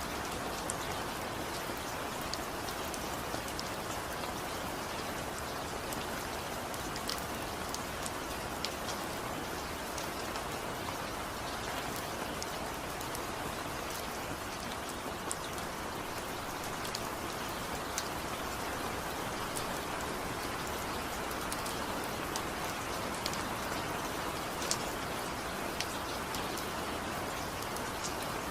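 Steady rainfall, an even hiss with scattered sharp drop ticks on a surface. No music or thunder.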